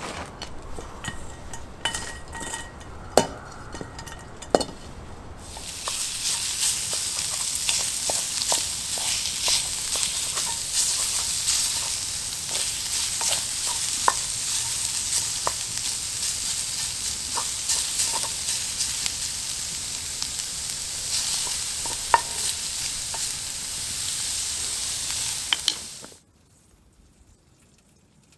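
Meat sizzling over campfire coals: a steady hiss with scattered pops and crackles that starts about five seconds in, after a few light clicks, and cuts off suddenly near the end.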